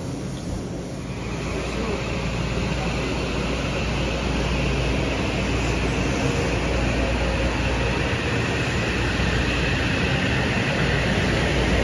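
Metro-North M8 electric multiple-unit train rolling past the platform: a steady low rumble, with a higher whine coming in about a second in as the sound grows louder.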